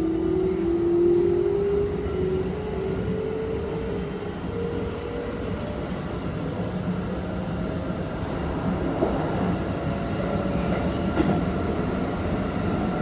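Keikyu 1500 series train's Toyo GTO-VVVF traction inverter and motors whining as the train runs, the main tone rising in pitch over the first few seconds as it gathers speed, over a steady rumble of wheels on rail. Two short sharp clicks come late on.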